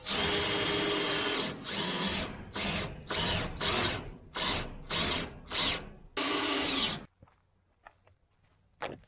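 Power drill running: one long run, then a string of about seven short trigger bursts, then another long run that stops about seven seconds in, followed by a few light clicks.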